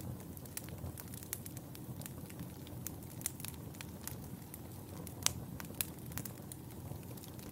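Wood fire in a fireplace burning with a steady low rumble and irregular sharp crackles and pops, one louder pop a little past five seconds in.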